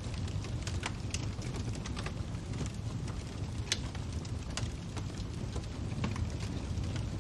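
Crackling wood fire: a steady low rumble with irregular sharp pops and snaps, a few louder than the rest.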